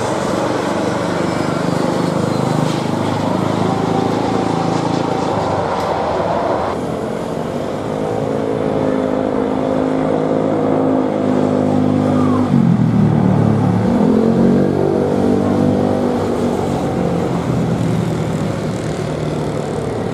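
Loud, steady engine noise with a pitched hum. About twelve seconds in, the pitch dips sharply and climbs back up.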